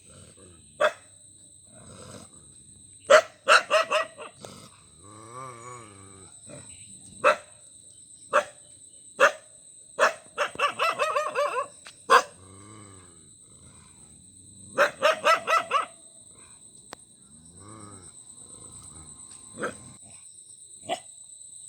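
A dog barking: sharp single barks spread through, with two quick runs of rapid barks about ten and fifteen seconds in, and a few longer, lower drawn-out sounds between them.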